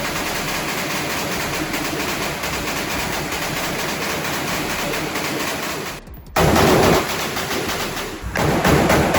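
Rapid strings of gunshots from firearms, shot after shot in quick succession. The firing breaks off abruptly for a moment about six seconds in, then resumes loudly.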